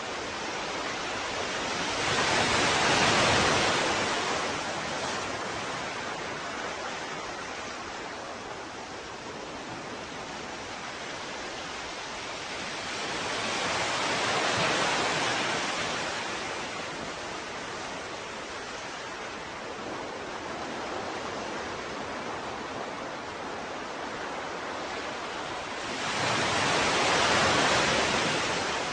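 Ocean waves washing onto a shore: a steady hiss of surf with three larger waves breaking and drawing back, about twelve seconds apart.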